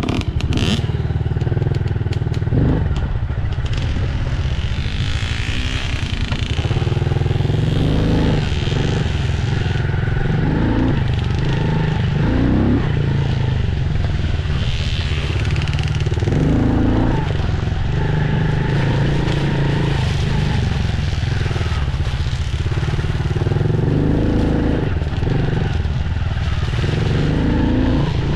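Dirt bike engine running as it is ridden, its pitch rising and falling again and again with the throttle, over a steady low rumble.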